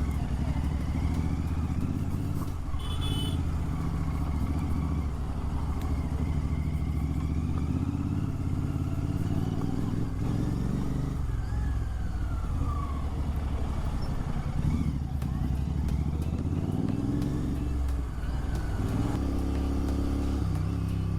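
Royal Enfield Continental GT 650's 648 cc parallel-twin engine running through an aftermarket Red Rooster Performance exhaust, its note rising and falling with the throttle. A brief high-pitched sound comes about three seconds in.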